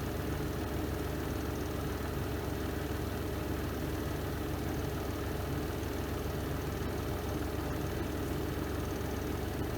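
Spin drum of a Renova semi-automatic twin-tub washing machine running in its spin cycle: a steady, even motor hum with a low rumble.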